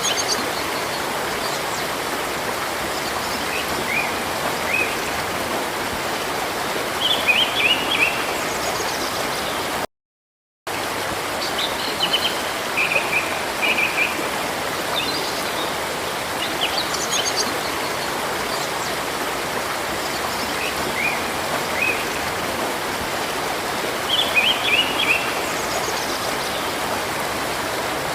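Steady rush of a river with small birds chirping over it in short runs of high notes. The sound drops out completely for under a second about ten seconds in.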